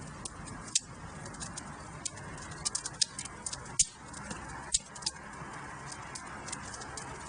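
Wood fire crackling in a fireplace: irregular sharp snaps and pops over a steady low rush of the flames, with a few louder pops about a second in and around four and five seconds.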